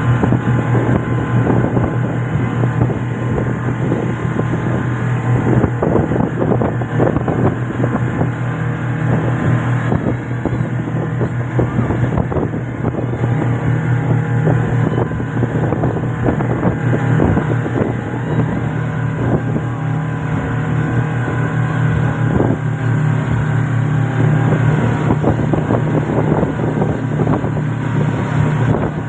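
Motorboat engine running steadily with a constant low hum, with wind noise on the microphone.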